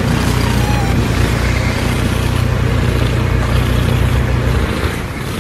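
Tabby cat purring loudly while its head is scratched, a steady low rumble that fades out about four and a half seconds in.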